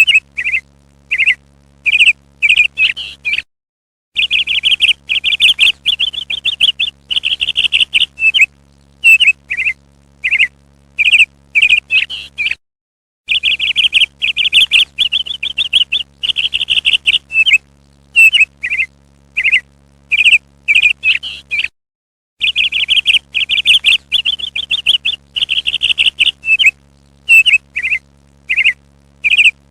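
Parrot chirping: stretches of rapid chatter alternate with single short, sharp calls. The sound drops out completely for a moment about every nine seconds, and a faint steady hum sits underneath.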